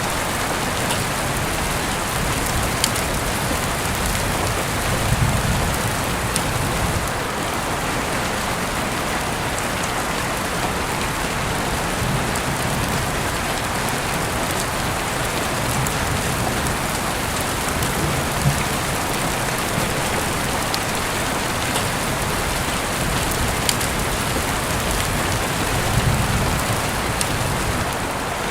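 Heavy rain falling steadily, an even hiss with scattered drips and ticks, and a few low rumbling swells.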